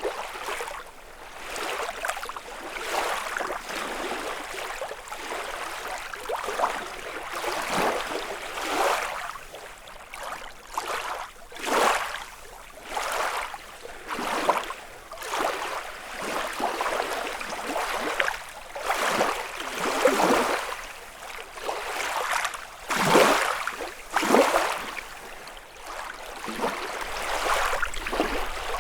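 Small lake waves lapping and washing on the shore, one swell after another every second or two, some louder than others.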